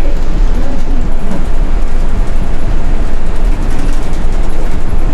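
Steady, loud rumble of a city bus driving on snow, heard from inside the cabin: engine and road noise from rear wheels fitted with snow chains.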